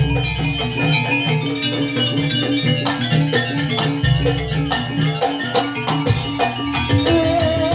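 Jaranan music from a gamelan-style ensemble: metal gong-chimes strike a fast repeating pattern over steady drum beats. A wavering melody line comes in near the end.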